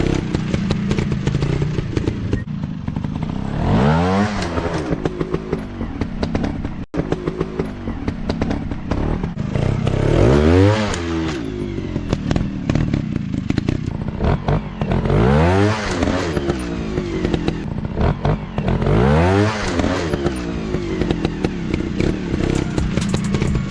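Dirt bike engine running under throttle, revving up and falling back four times, with a steady engine rumble between the revs.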